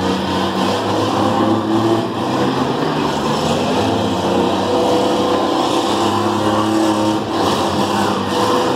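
Several minivan engines running together in a steady din, some of them held at a raised pitch.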